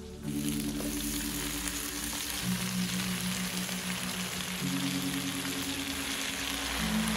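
Fresh sentrong (fireweed) leaves dropped into hot oil in a wok sizzle suddenly just after the start, then keep up a steady frying hiss. Slow background music notes sound underneath.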